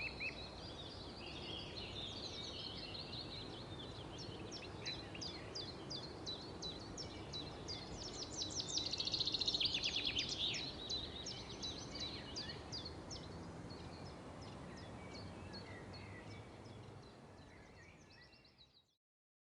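Birds chirping and trilling over a steady outdoor background hiss, fading out near the end.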